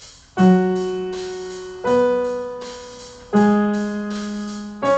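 Piano playing a short ear-training pattern of four single notes, each struck about a second and a half apart and left to ring and fade.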